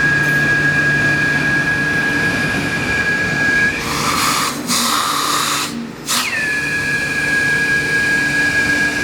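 Ruwac DS1220 industrial vacuum dust collector running with no hose fitted, a loud steady high whine. About four seconds in the whine gives way to a rushing air sound for about two seconds, then comes back, settling from a higher pitch to its steady note.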